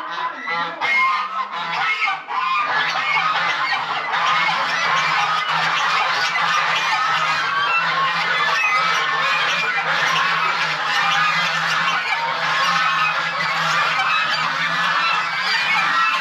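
A large flock of farm poultry calling all at once: a dense, continuous chorus of many short overlapping calls.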